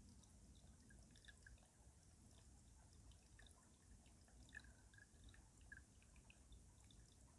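Faint dripping and trickling of stream water running under ice, a scatter of small plinks over a low steady wash.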